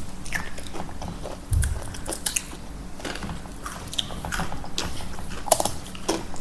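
Crunching and chewing of Takis, rolled spicy tortilla chips, in irregular crisp crunches.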